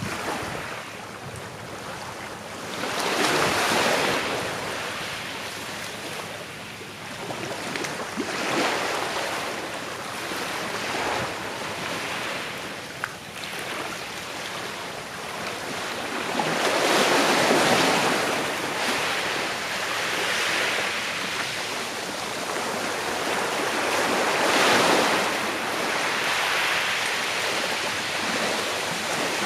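Small sea waves washing onto a shore, each swelling and hissing as it breaks and then drawing back, with a longer, fuller surge about halfway through.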